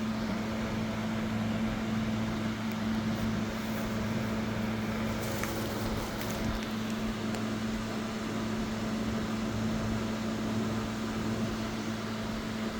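Steady mechanical hum with a low, even drone and a hiss, with a few faint light clicks near the middle.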